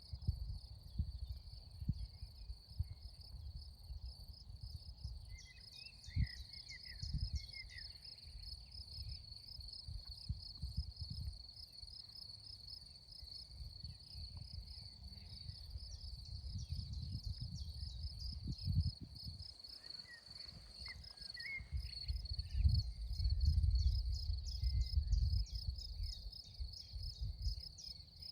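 Insects chirping in a steady, fast, high-pitched pulse, like a meadow full of crickets. Under it runs an uneven low rumble that swells for a few seconds near the end, with a few short higher chirps now and then.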